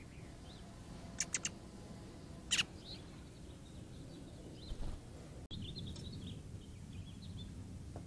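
Backyard songbirds calling: faint high chirps, three sharp ticks in quick succession just over a second in, a louder tick at about two and a half seconds, and a rapid run of high chirps in the last few seconds.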